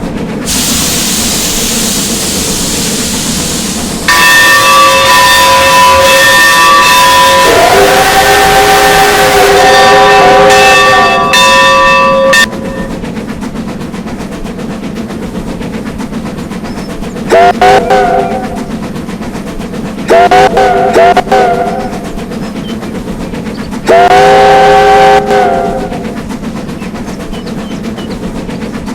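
A locomotive whistle blows a long chord of several notes for about eight seconds. Then it gives four short blasts, the last a little longer, each sliding up into pitch. Between the blasts the train runs steadily underneath.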